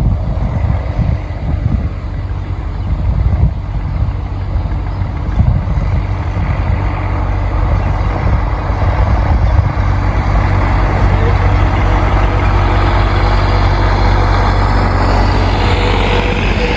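Vintage tractor engine running steadily and growing louder as it draws nearer, with wind buffeting the microphone in the first few seconds.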